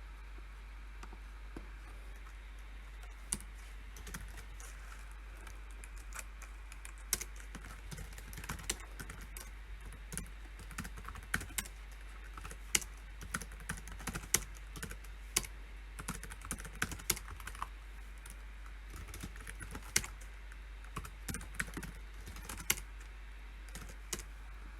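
Typing on a computer keyboard: scattered keystrokes for the first several seconds, then quicker irregular runs of key clicks that stop near the end. A steady low hum runs underneath.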